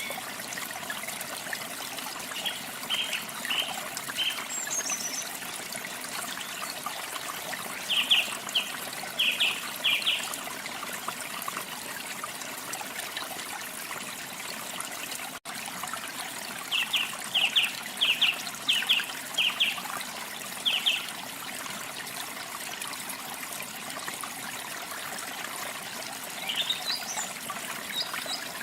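Steady rush of a waterfall, with a songbird breaking in a few times with quick series of short, clipped notes and a rising call near the end. The sound drops out for an instant about halfway through.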